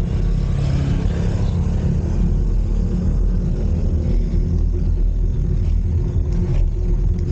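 Wind buffeting the microphone of a camera riding on a moving bicycle: a steady, loud low rumble with a little road and tyre noise.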